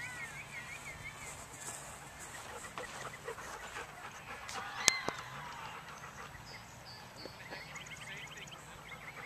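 Birds chirping and calling, with short repeated chirps and a few quick trills. A single sharp click sounds about five seconds in.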